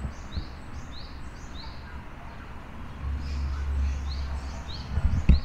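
A small bird calling over and over: a short, high rising chirp about twice a second, with a pause partway through. Under it runs a low rumble, with a couple of thumps near the end.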